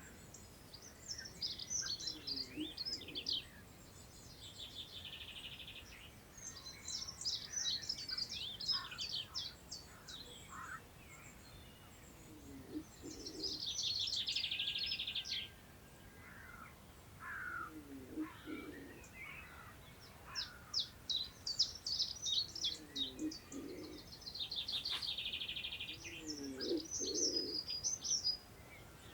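Countryside birds singing in short, busy high-pitched phrases about every five seconds, several ending in a buzzy held note, with lower calls repeating in between. Faint wind hiss runs beneath.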